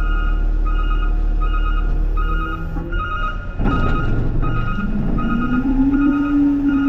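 Garbage truck's backup alarm beeping about once a second over its running diesel. About halfway through there is a loud clattering burst, after which a low drone rises in pitch and holds steady, as the truck's engine speeds up.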